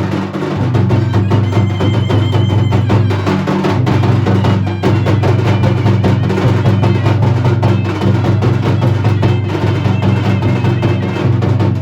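Dhol and nagada drums played loudly in a dense, fast, unbroken rhythm, with a deep low boom under rapid strokes.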